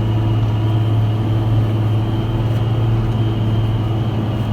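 Large farm diesel engine running steadily under load while chopping maize: an even low drone with a faint, constant high whine over it.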